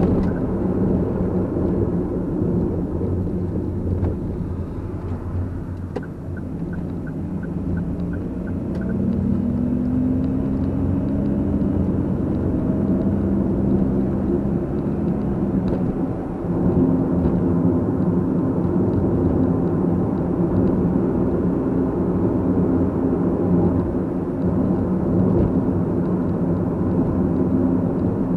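Car driving, with steady engine hum and road noise; the engine note rises about a third of the way in as the car speeds up. A short series of light, evenly spaced ticks comes just before the rise, and the level dips briefly and steps back up about halfway through.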